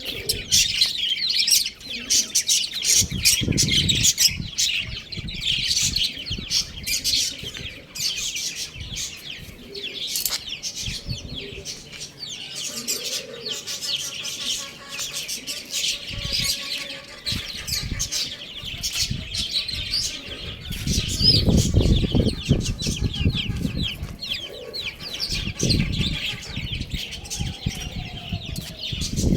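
Many domestic chicks chirping continuously in high, rapid peeps, with low rustling thumps now and then, strongest around three seconds in and again about twenty-one seconds in.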